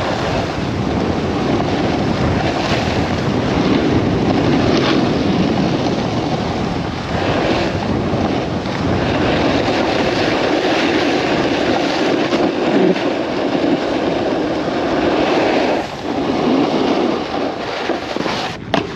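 Wind rushing over a helmet-mounted action camera's microphone while snowboarding downhill, with the board sliding and scraping over snow. The rush eases briefly about three quarters of the way through, and a few sharp clicks come near the end.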